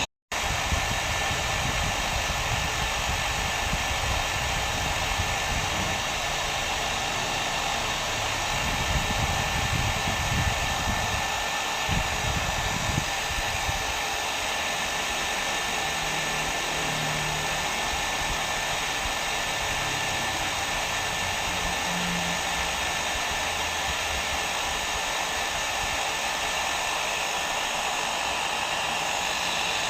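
Hair dryer blowing steadily: a continuous even whoosh with a faint steady whine. It cuts out very briefly right at the start, then runs unchanged, with some uneven low rumble for a few seconds in the middle.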